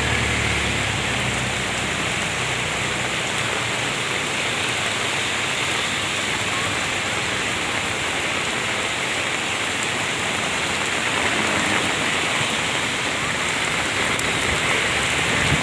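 Steady heavy rain falling on surfaces. A low hum fades out in the first few seconds.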